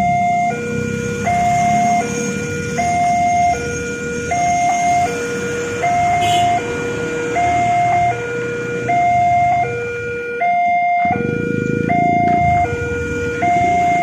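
Indonesian railway level-crossing warning alarm sounding: an electronic two-tone signal alternating between a higher and a lower tone, each held about three-quarters of a second, repeating steadily over a low rumble.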